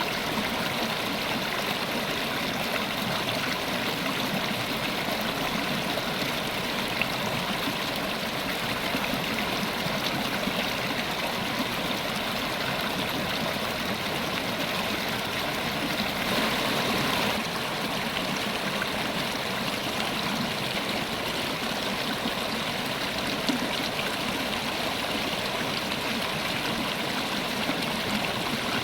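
River water running steadily over rocks, a continuous rushing and babbling, slightly louder for a moment a little past halfway.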